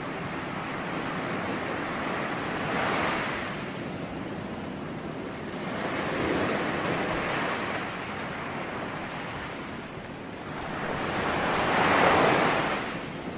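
Ocean waves breaking in a steady wash, swelling three times, about three, six and twelve seconds in; the last surge is the loudest.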